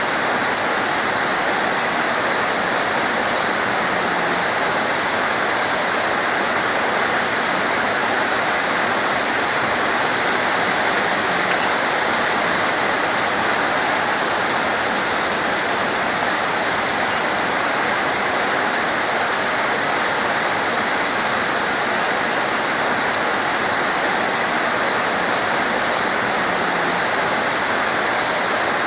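Heavy torrential rain pouring down in a dense, steady hiss, with an occasional faint sharp tick.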